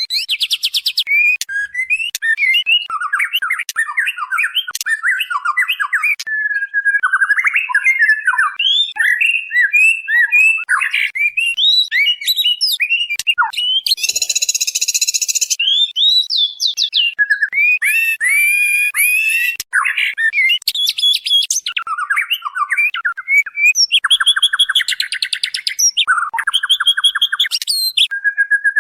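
White-rumped shama (murai batu) singing a fast run of varied whistled and warbled phrases, broken four times by harsh buzzing rattles lasting a second or more. Presented as a female calling to a male, as a lure for male birds.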